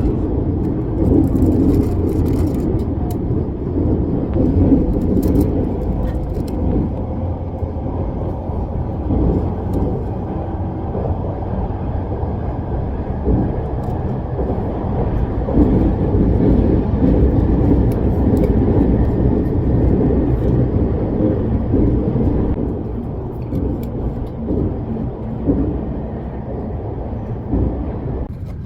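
Inside a moving express train carriage: a steady low running rumble that swells and eases, with a few faint light clicks in the first several seconds.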